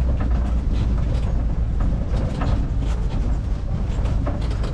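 Safari ride truck driving over a rough track: a steady low engine and road rumble with frequent small rattles and knocks from the vehicle's body.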